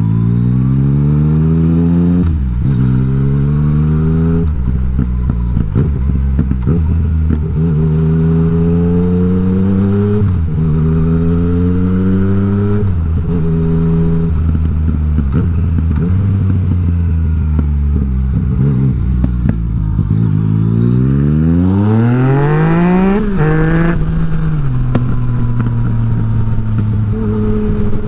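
Yamaha MT-09's three-cylinder engine through an Akrapovic exhaust with the dB killer removed, revving up and dropping back again and again. About three-quarters of the way through it climbs sharply to a high rev, then falls and settles to a steady lower note.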